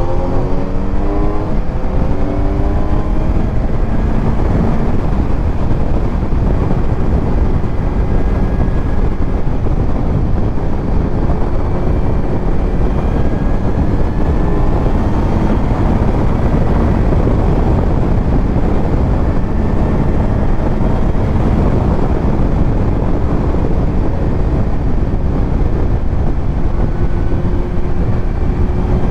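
Kawasaki Z900 inline-four with a titanium Arrow aftermarket exhaust, under way on the road. Its pitch climbs in the first couple of seconds, then it holds a steady cruise, mostly buried under heavy wind rush on the helmet-mounted microphone.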